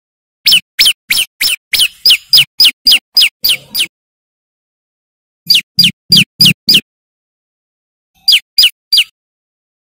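Prenjak lumut (a prinia) singing: a run of about a dozen sharp, downward-sliding chirps at three to four a second, then a run of five, then a run of three, with short pauses between the runs.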